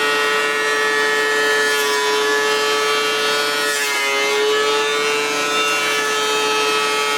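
Electric wood planer running with a steady whine, cutting reclaimed deck boards; its pitch sags a little about four seconds in as the cutter takes load.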